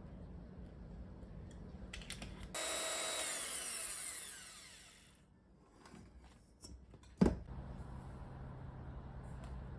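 An electric kitchen mixer's motor runs at high speed for under a second, then is switched off and winds down with a falling whine. A few seconds later there is a sharp click, and a low steady hum follows.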